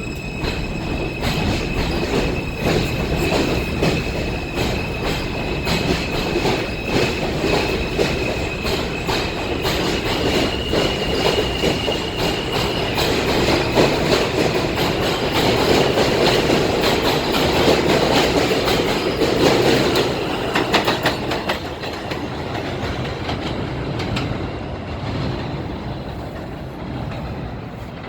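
New York City Subway J train pulling out of an elevated station. A high motor whine steps up in pitch about ten seconds in, over rumble and wheels clacking across rail joints. The sound builds as the cars pass, then fades away over the last several seconds.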